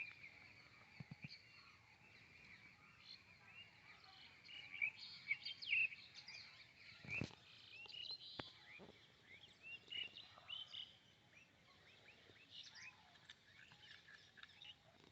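Faint bird chirping: many short chirps and twitters throughout, with two soft knocks about seven and eight and a half seconds in.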